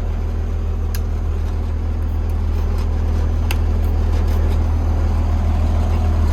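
Cummins ISB 5.9-litre inline-six turbo diesel in a Blue Bird school bus idling steadily, with a deep, even rumble. A few faint clicks sound over it.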